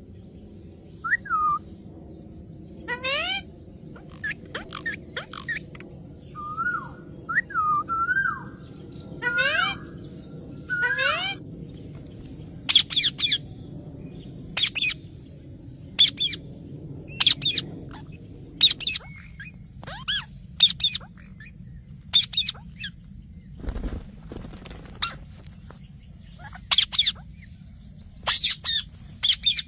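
Parrot calling: rising whistled notes in the first half, then short, sharp, high-pitched calls repeated about once a second.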